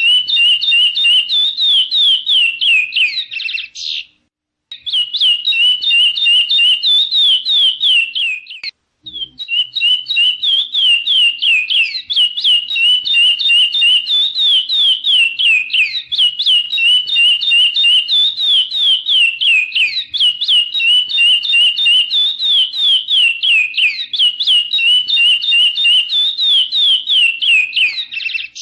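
Chestnut-bellied seed finch (curió) singing: a fast, continuous run of clear whistled notes, each sliding down in pitch, broken by two short pauses.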